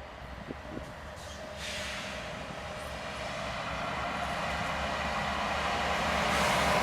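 Diesel freight train approaching: a low, steady locomotive engine hum with rising rail and wheel noise, growing steadily louder.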